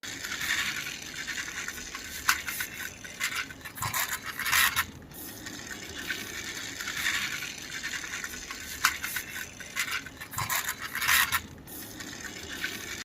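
Toy excavator being pushed along a surface by hand: its wheels scraping and its parts clattering and clicking, with louder scrapes about four seconds in and again near the end.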